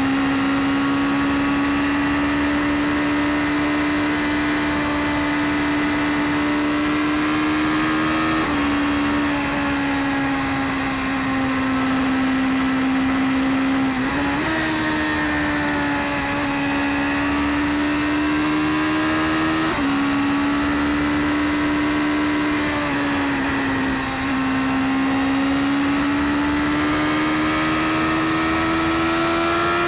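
BMW S1000RR inline-four sport bike engine running at steady, fairly high revs at speed, the note stepping abruptly in pitch a few times and climbing gradually near the end.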